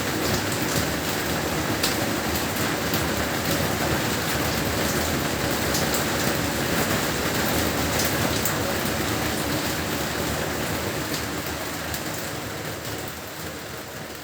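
Heavy rain falling steadily, with scattered sharp drop hits, fading out over the last few seconds.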